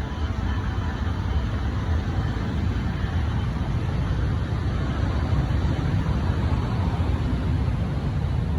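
Jet airliner engines heard at an airport: a steady low rumble with a faint whine above it.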